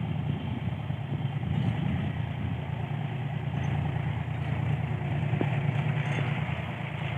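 John Deere 5050E tractor's diesel engine running steadily while driving a thresher.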